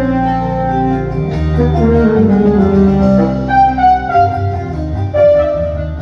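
Instrumental band music: a melody of held notes over a steady bass line, from a small ensemble with bass guitar, violin and drums playing a Turkish pop song.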